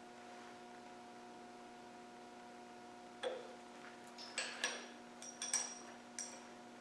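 Faint metallic clinks and taps of tools and engine parts being handled, starting about three seconds in and coming several times over the next few seconds, over a steady electrical hum.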